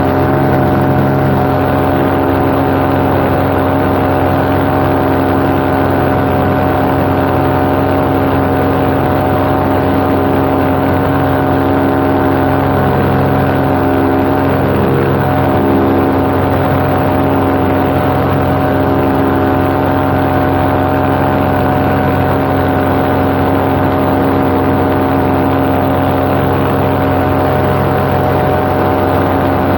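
Paramotor engine and propeller running steadily at cruise power, one loud, unchanging note.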